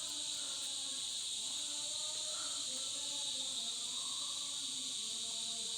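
Steady, continuous chorus of night insects such as crickets, at two high pitches, with faint wavering lower tones underneath.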